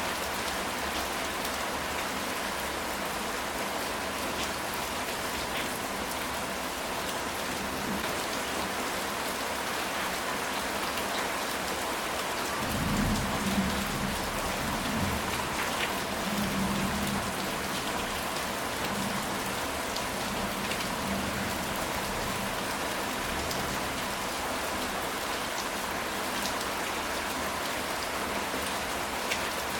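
Steady rain falling on a ceramic tile roof, with individual drops ticking. About halfway through, a low rumble of thunder rolls in for several seconds and fades away.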